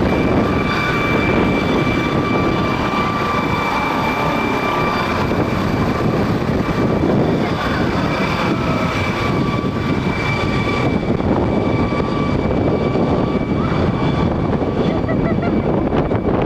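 Emergency helicopter running at high power: a steady turbine whine over loud rotor and downwash noise. The whine fades about two thirds of the way through as the helicopter climbs away.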